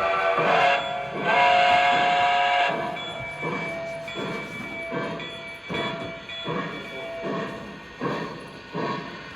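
An O-scale model locomotive's onboard sound system sounds a long chorded whistle blast that stops about two and a half seconds in. Regular chuffs follow, about one every three-quarters of a second, as the locomotive runs.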